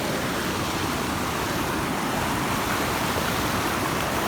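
Steady rushing of water pouring over a small river waterfall.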